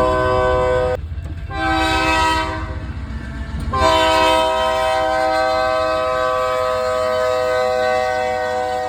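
Canadian National freight locomotive's air horn sounding a multi-note chord in blasts: one breaks off about a second in, a second blast follows half a second later and fades, and a long blast begins about four seconds in and holds. A steady low rumble of the passing train lies under the horn.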